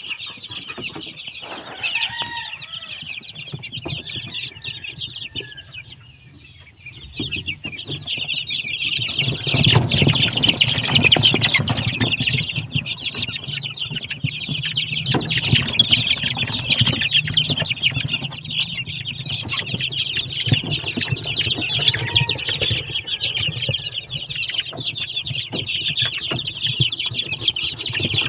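Chickens clucking, with a few short calls about two seconds in, over a steady high-pitched buzz. A louder low rumble joins after about seven seconds.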